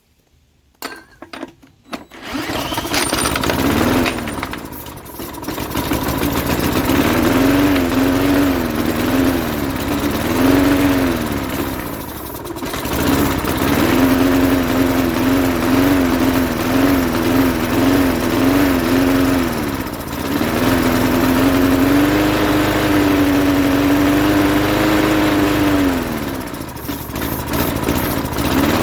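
Briggs & Stratton 3.5 hp single-cylinder engine on a 1988 Jacobson lawn mower catching about two seconds in and running unevenly, its speed rising and falling and sagging several times. It is running on quick-start spray alone because the carburetor is not feeding it fuel.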